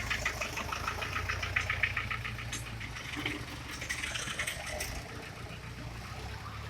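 An engine running with a steady low hum and a fast, even clatter. The clatter is strongest for the first few seconds and fades after about three seconds.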